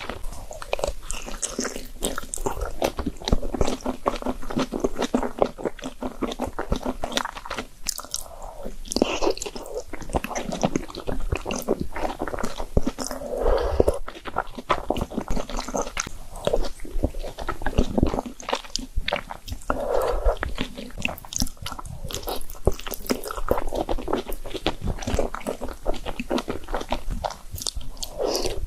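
Close-miked chewing and biting of spicy noodles and dumplings: a dense run of quick wet clicks and smacks, with a louder mouthful every several seconds.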